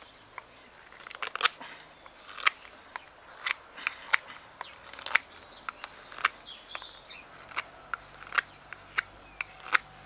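Knife strokes cutting into seasoned alder wood while thinning the back of a spoon bowl: a series of short, sharp clicks at an irregular pace, some in quick pairs.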